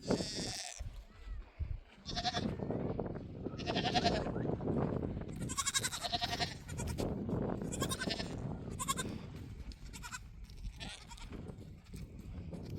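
A flock bleating: about eight quavering calls from several animals in turn, some overlapping, over a low steady rustle.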